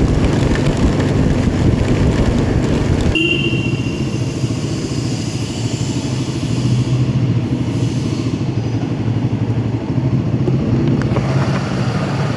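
Royal Enfield Himalayan 450's single-cylinder engine running steadily on the move, with wind and road noise around it. About three seconds in the low rumble eases and a brief high tone sounds.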